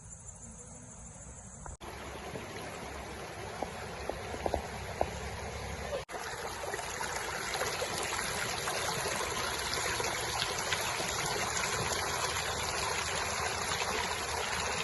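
Running water flowing steadily, starting abruptly about two seconds in after a quieter opening, with a brief break around six seconds in and a few small clicks over the water before that.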